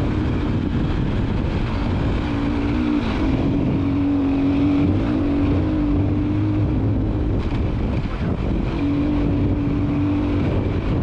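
KTM EXC-F 450 enduro motorcycle's single-cylinder four-stroke engine running under way, heard from on board. The engine note holds level for several seconds at a time and eases off twice.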